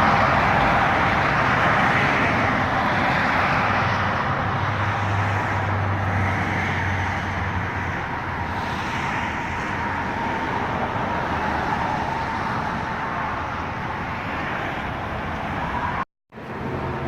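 Steady running noise of a 2015 Ford Mustang GT with its 5.0-litre V8, with engine hum under road and tyre noise. It cuts off abruptly to silence for a moment near the end.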